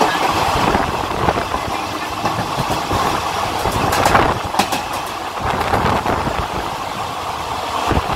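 Two express trains running side by side at speed: the steady rumble and rattle of coach wheels on the rails, with a few sharper clacks about four seconds in.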